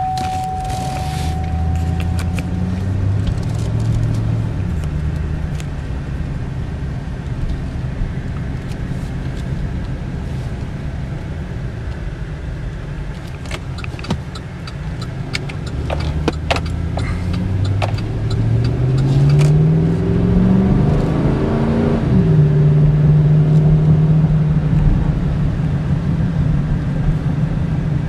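2008 Chevy Silverado 1500 pickup heard from inside the cab as it pulls away and accelerates. The engine note rises in pitch, then climbs again through the middle, drops suddenly at an upshift about three quarters through, and settles into a steady cruise over road noise. A few light clicks are heard near the start and in the middle.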